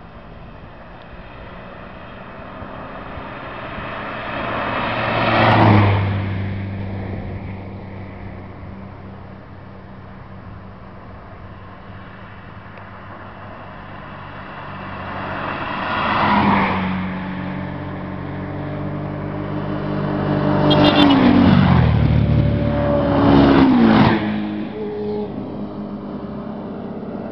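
Sport motorcycles passing at high speed with the throttle wide open, one after another. There are about four pass-bys, each swelling to a peak and dropping in pitch as it goes by. The last two come close together, near the end.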